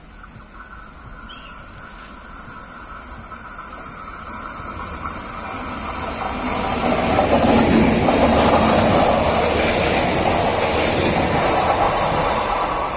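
Electric commuter train approaching and running through a station. Its sound builds steadily for about eight seconds, then stays loud as the train passes.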